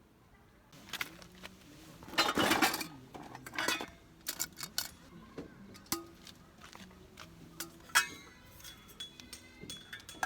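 Dishes and metal utensils clinking and clattering as camp tableware is handled: a string of sharp clinks and knocks, with a longer rattling clatter a couple of seconds in.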